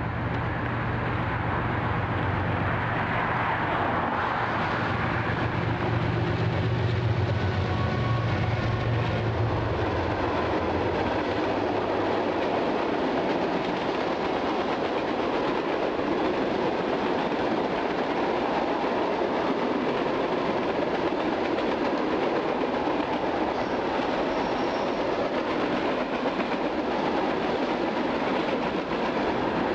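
Diesel freight train passing: the locomotives' engines hum for the first ten seconds or so and fade out, then the freight cars roll by with steady wheel-on-rail noise and clatter.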